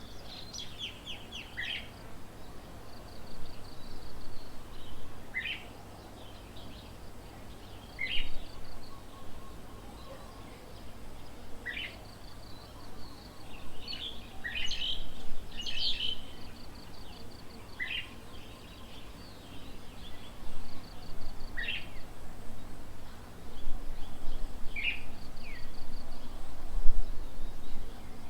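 Several birds calling. A short, sharp note repeats every two to three seconds, with fast chattering trills between.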